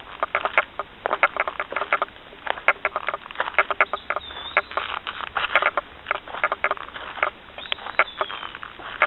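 Footsteps of hikers on a wooded trail: a quick, irregular run of crackling, scuffing steps. A bird gives a short chirp about four seconds in and again near the end.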